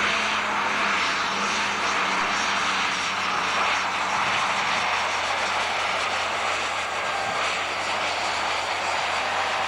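Super stock pulling tractor's engine running flat out during a pull, a steady, unbroken blare without gaps or shifts.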